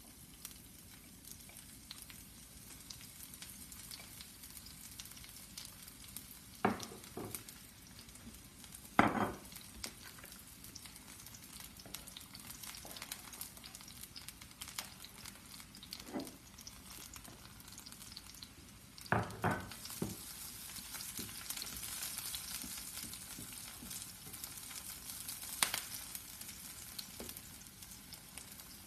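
Diced vegetables sizzling in oil in a non-stick frying pan as they are stirred with a spatula, the sizzle growing louder about two-thirds of the way through. A few sharp knocks stand out above it, the loudest about a third of the way in and a pair shortly after the middle.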